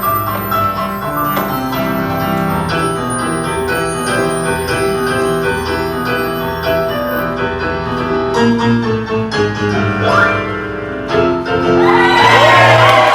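Piano music playing with steady chords and a moving melody, the accompaniment of a stage melodrama. Near the end an audience joins in with whoops and whistles.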